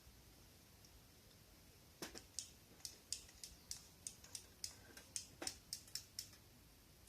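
A quick irregular run of sharp clicks and snaps, about three a second, starting about two seconds in and stopping near the end.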